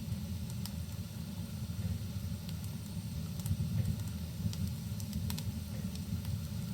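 Crackling wood fire: scattered sharp pops and snaps over a steady low rumble, in a rain-and-fireplace ambience.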